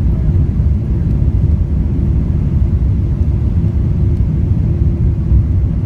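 Steady low rumble inside the passenger cabin of a Boeing 777-300ER.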